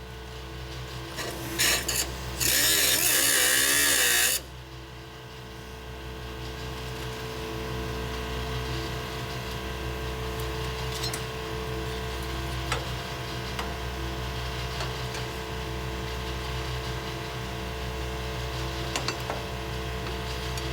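Body-shop tool noise: a short burst and then a two-second burst of loud hissing noise near the start, over a steady machine hum with several held tones.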